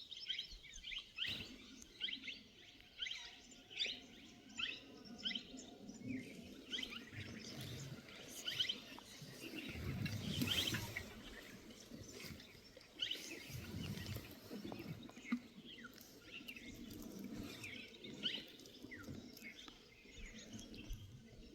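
Small forest birds chirping in short, repeated calls, several a second at times, with a faint low rumble about ten seconds in.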